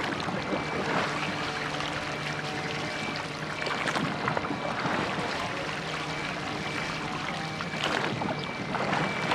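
Church boat under oars: water rushing and splashing with the strokes, over a faint steady hum.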